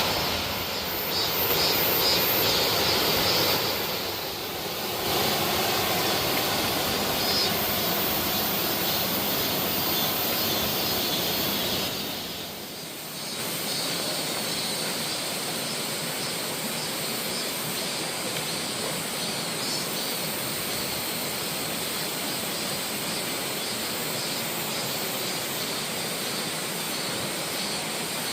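Steady rush of falling water from a mountain valley waterfall, dipping briefly in level twice, about four and twelve seconds in.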